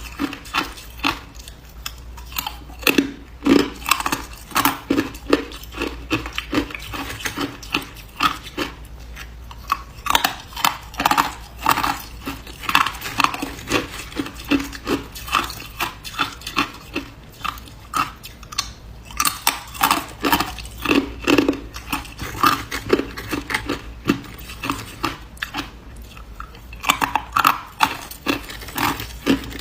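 Hard ice being bitten and chewed close to the microphone: a continuous run of sharp crunches, several a second.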